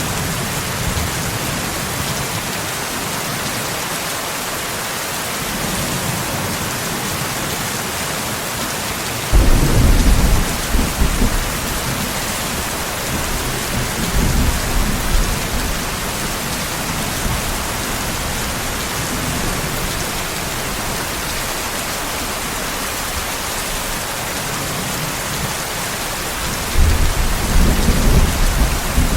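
Steady heavy rain hissing, with rolls of thunder: a sudden loud rumble about nine seconds in, a weaker one a few seconds later, and another near the end.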